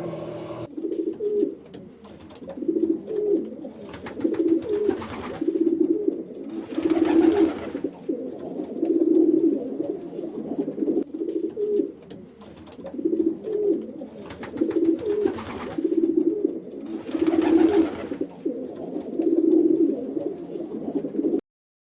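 Pigeons cooing, low calls following one another steadily, with a few brief noisy rustles among them; the sound cuts off just before the end.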